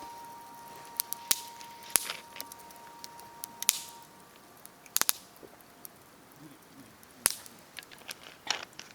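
Wood fire crackling, with sharp irregular pops and snaps and a few short hisses.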